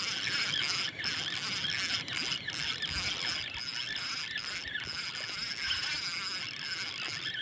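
Spinning reel being cranked to bring in a hooked fish: a steady whirring with soft swells about twice a second.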